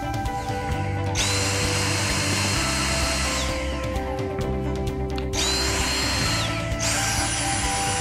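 Dyson DC59 cordless stick vacuum's motor switched on in boost mode, spinning up fast to a high whine and rushing air, then winding down. It starts and stops three times; the last start settles on a higher-pitched whine.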